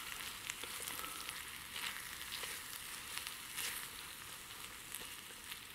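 Potatoes and Leberkäse frying in a small pan over a wood-fired Bushbox stove, sizzling steadily. Scattered light clicks and scrapes come from a spoon stirring the pan.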